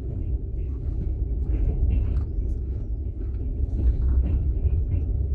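Passenger train running, heard from inside an open-plan sleeper carriage: a steady low rumble of the wheels and car body.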